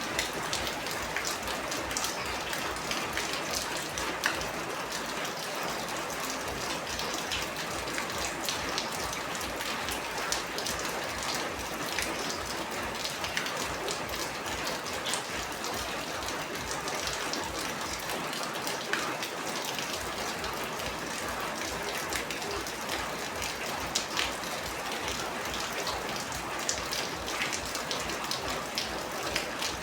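Steady heavy rain with many sharp individual drops spattering on a surface.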